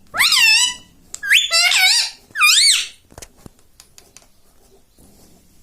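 Rose-ringed parakeet giving three loud, shrill calls that sweep up and down in pitch within the first three seconds, followed by a few faint clicks.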